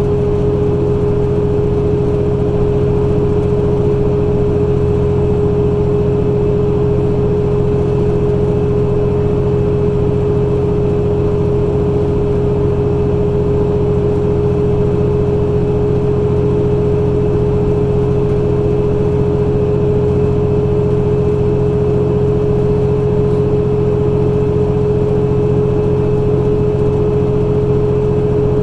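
Truck engine running steadily while driving, a constant drone with a steady hum over it and no change in pitch.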